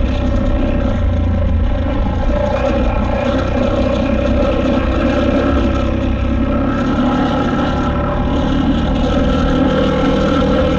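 KTM 890 Adventure R's parallel-twin engine running steadily under way, its tone holding fairly even with a slight change in pitch about seven seconds in.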